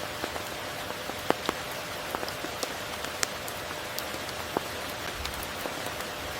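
Steady rain falling, with many distinct single drops striking close by and a few louder drips standing out.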